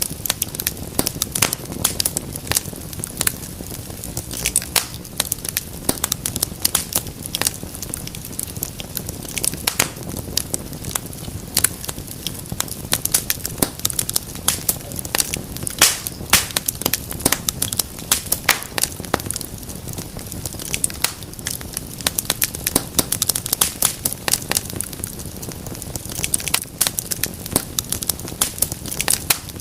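Wood fire crackling and popping continuously, with many sharp irregular pops over a low steady rumble of the flames.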